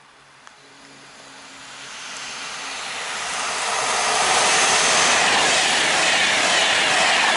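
Class 390 Pendolino electric train approaching and passing at speed: a rush of wheel-on-rail and air noise that builds over the first four seconds or so, then holds loud and steady as the carriages go by.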